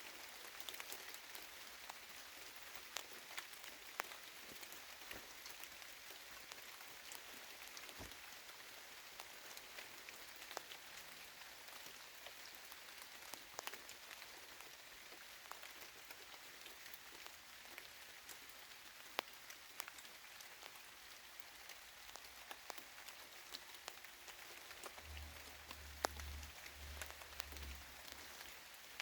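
Light, steady rain falling on trees and leaves, with scattered individual drops ticking sharply close by. A brief low rumble comes in near the end.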